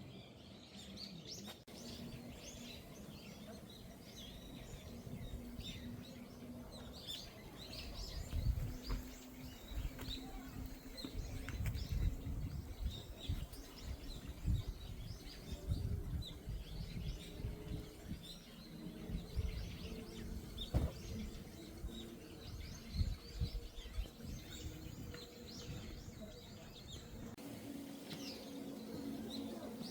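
Small birds chirping over and over in woodland. Through the middle there are irregular low thuds and rumbles, which are louder than the birdsong.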